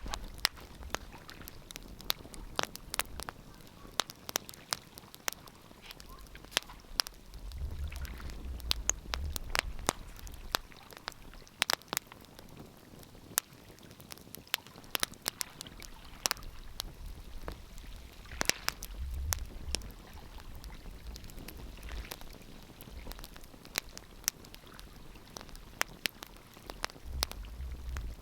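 Wood fire crackling in a fireplace: irregular sharp pops and snaps, some louder than others. A low rumble swells three times, at about 8 seconds, around 19 seconds and near the end.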